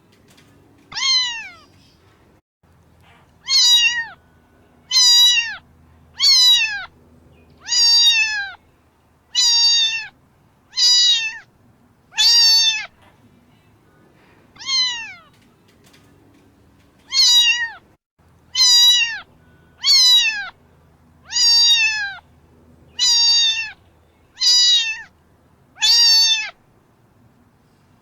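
Domestic cat meowing over and over, about sixteen short meows that each fall in pitch, one every second or two, with a couple of longer pauses.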